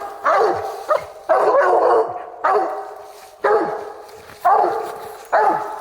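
Hunting hound barking steadily, about one long bark a second, each trailing off, six in all: barking at a raccoon it has found.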